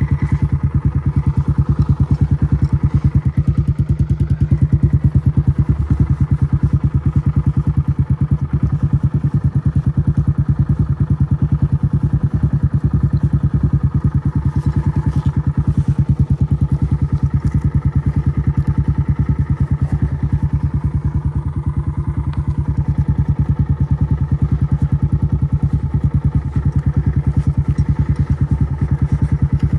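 Kawasaki KLX140RF dirt bike's single-cylinder four-stroke engine running at a steady idle, an even, rapid train of exhaust pulses with no revving.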